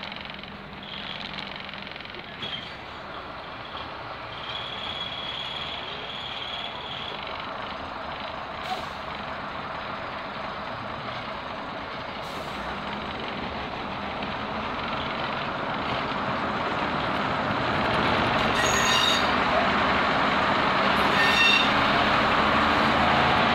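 Class 121 diesel railcar running along the track, heard from inside the passenger saloon: a steady rumble of wheels and engine that grows louder over the second half, with two short, high metallic squeals near the end.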